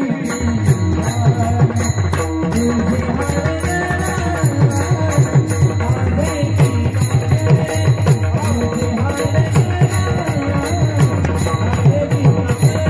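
Marathi devotional bhajan music: small hand cymbals ringing in a fast, even beat over drum strokes, with a wavering melodic line above.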